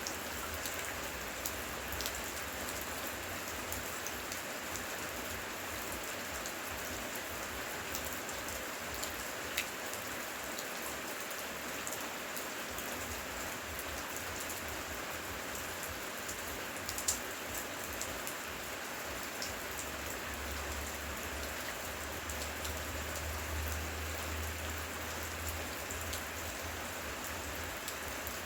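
Steady rain falling, an even downpour with scattered sharp drip ticks through it.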